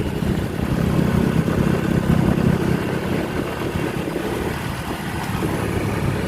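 A vehicle engine running, a steady low rumble that is loudest for the first few seconds and then eases off.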